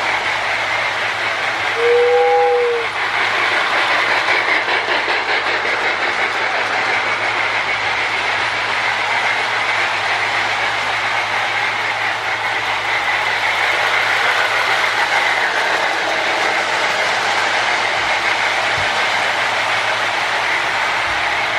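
Toy electric train running on its track, with the repaired Marx Sound-O-Power tender giving its electronic chugging and the wheels rattling steadily along the rails. A short whistle-like tone sounds once about two seconds in.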